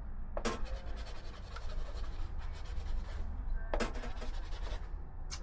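A dried-out giant Sharpie marker being scrubbed back and forth on a surface to get it writing: a dry, scratchy rasp of quick strokes, broken by three sharp clicks. A steady low hum runs underneath.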